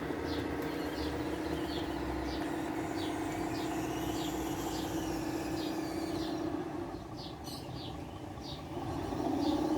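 Electric drive motors and gearboxes of a radio-controlled Huina construction model running with a steady whine, which eases off for about two seconds near the end and then comes back louder.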